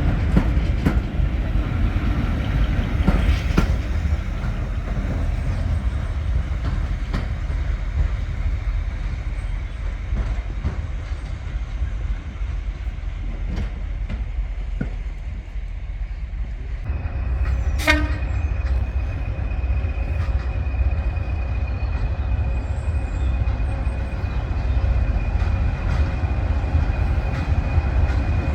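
Diesel locomotive running with a heavy, deep rumble. About two-thirds of the way through, a single short sharp note sounds and a steady high whine sets in and holds.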